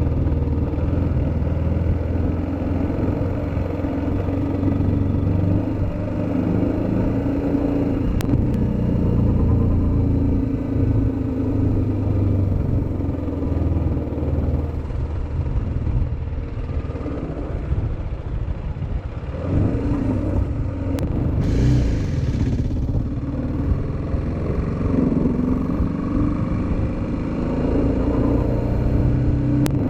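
Motorcycle engine running while riding, its pitch rising and falling with speed. A brief hiss cuts in about two-thirds of the way through.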